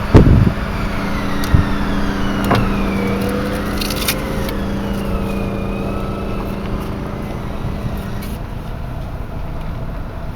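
Car driving slowly, with road and engine noise heard from inside the cabin and a steady hum that stops about eight seconds in. A sharp knock at the very start is the loudest sound, and lighter knocks follow about one and a half and two and a half seconds in.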